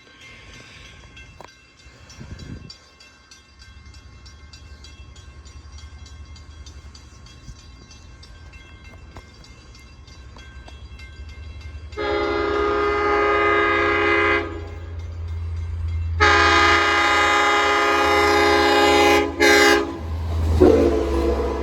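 Long Island Rail Road diesel locomotive 400 approaching and passing at speed: a low diesel rumble grows, then its Nathan K5LL chime horn sounds two long blasts. A last burst near the end comes out lower in pitch as the train goes by.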